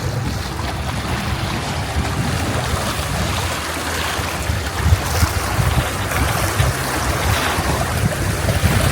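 Wind buffeting the microphone with a low, gusting rumble, over a steady rush of water.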